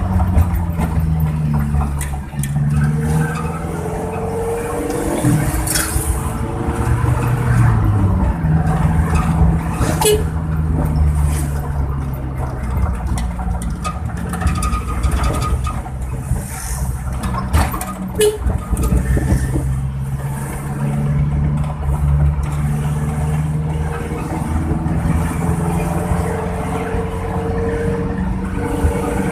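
Suzuki Carry's engine and exhaust running under way with a deep snoring note likened to a bus. The pitch climbs and drops back several times, then holds steadier, with a few sharp clicks along the way.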